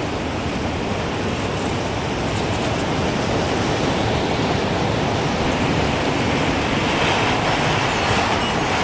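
Gusting wind, a steady rushing that swells toward the end, with a few faint high wind-chime tinkles coming in near the end.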